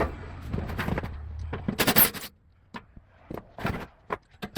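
Hand tools scraping and knocking on the sheet-metal blower housing while the motor mounting bolts are worked loose, loudest in a scrape about two seconds in, then a few light clicks.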